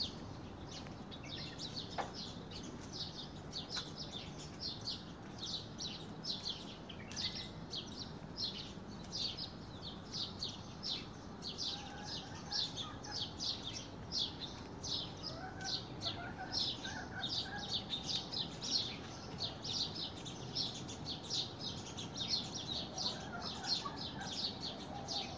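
Birds chirping: rapid, evenly repeated high chirps, about three a second, with fainter lower calls now and then in the second half.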